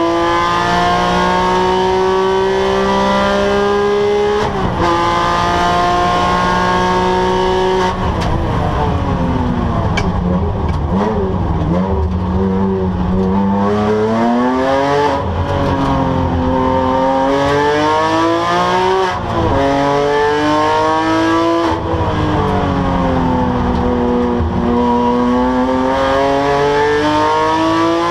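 Porsche 997 GT3's flat-six engine under racing load, heard onboard. It holds high revs with a brief dip about four and a half seconds in. From about eight seconds in the pitch falls with short blips of downshifts under braking, then it climbs, drops and climbs again several times as the car accelerates and brakes through corners.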